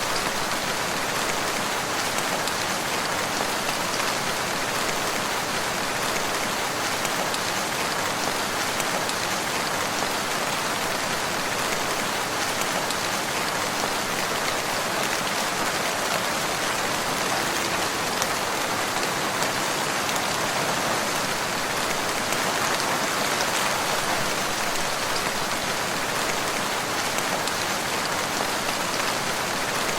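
Steady rain falling, an even unbroken hiss of many drops with no thunder.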